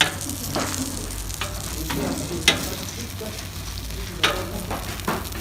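Meat sizzling on a hot barbecue grill, a steady hiss broken by several sharp clicks.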